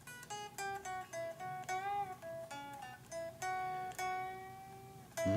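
Blues guitar playing a single-note lead line: a run of picked notes, several bent up and back down in pitch.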